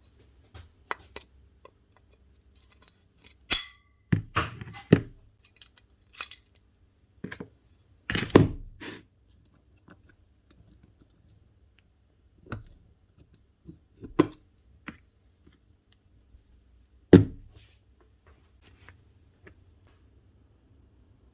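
Parts of a Makita GA9040 angle grinder being handled and worked on by hand: scattered clicks, clinks and knocks of metal and plastic parts at an irregular pace, with a cluster of louder knocks about four seconds in, another near eight seconds and a single sharp knock near seventeen seconds.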